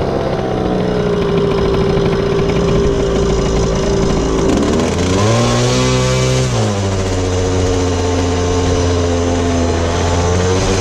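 Polini 70 cc air-cooled minimotard engine running at low revs under the rider. About halfway through it revs up in a quick blip and drops back to a steady low speed.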